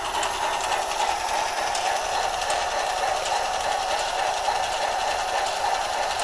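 Battery-powered toy train engine playing its built-in train running sound through a small speaker, a steady rushing noise that does not change.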